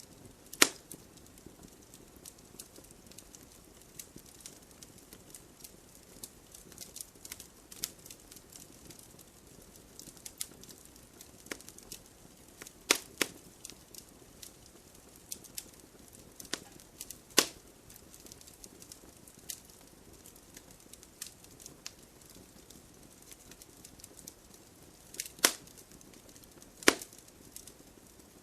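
Wood fire in a fireplace crackling steadily, with many small ticks and a few louder sharp pops from the burning logs, about five of them scattered through.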